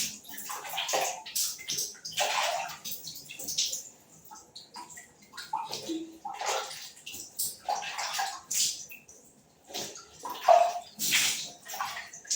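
Water splashing in short, irregular bursts separated by brief pauses, like water being scooped and splashed by hand.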